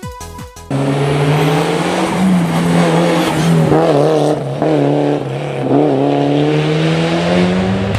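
Mitsubishi Lancer rally car's engine running hard at high revs, its pitch wavering and briefly dipping with throttle and gear changes, over loud tyre and road hiss.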